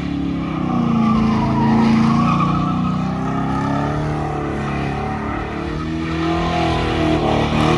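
Truck engine revving hard through a loud aftermarket exhaust, its pitch rising and falling several times.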